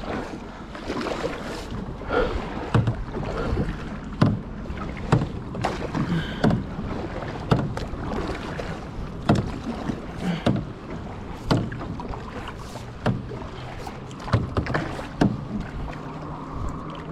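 Kayak paddle strokes, the blades dipping and splashing in the water about once a second in an even rhythm.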